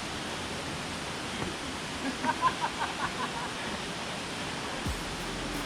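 Nachi Falls, a tall waterfall, rushing as a steady even roar of falling water. A short cluster of faint high pips rises above it around the middle.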